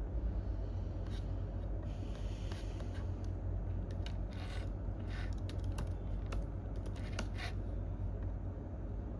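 A few irregular keyboard and mouse clicks with a couple of short scrapes, over a steady low hum of office room tone.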